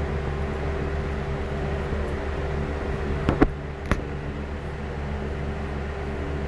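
A machine's motor running steadily with a low hum, with two short knocks a little over halfway through.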